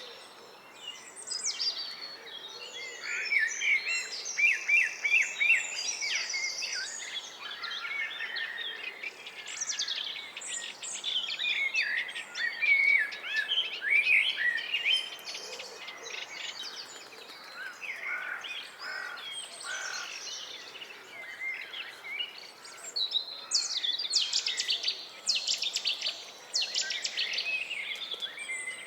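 Several songbirds singing at once: a dense run of varied chirps, warbles and rapid trills, one phrase overlapping the next.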